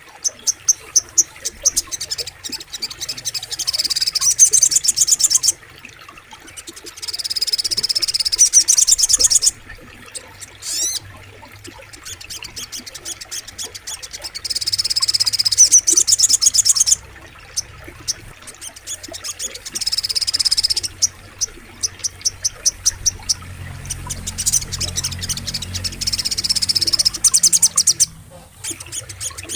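Sogok ontong (crimson sunbird) singing: bursts of very rapid, high-pitched trilled chirps a few seconds long, repeated after short pauses, with one quick sweeping note about eleven seconds in. A faint low rumble of flowing water runs underneath.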